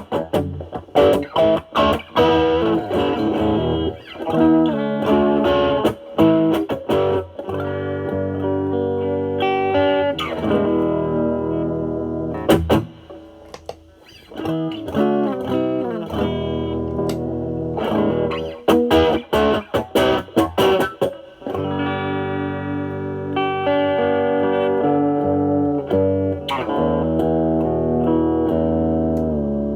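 Semi-hollow electric guitar overdriven through a NOBELS ODR-1 pedal with a bass-cut mod, drive set around 10 to 11, into a Marshall Valvestate amp on its clean channel. It plays picked single-note lines and chords, drops nearly silent for a moment a little before halfway, and lets longer chords ring near the end.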